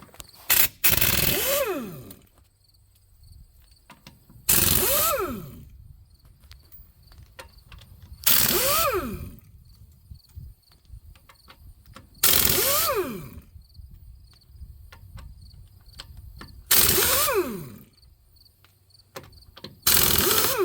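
Power impact wrench with a 19 mm socket spinning off a truck's six lug nuts, one short burst per nut, six in all about four seconds apart. Each burst ends with the motor's pitch falling as it winds down.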